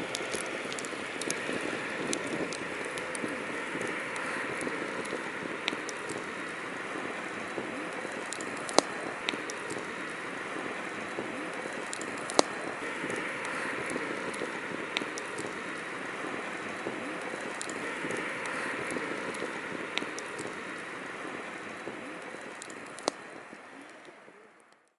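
Wood campfire burning with a steady hiss and crackle, and sharp pops every few seconds. The sound fades out at the very end.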